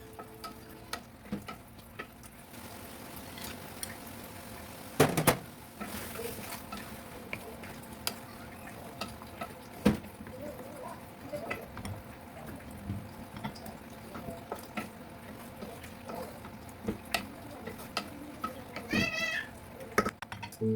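Spoon stirring and knocking against a pot of frying pulao, over a steady sizzle, with sharp clinks of metal on metal now and then. A brief high-pitched cry comes near the end.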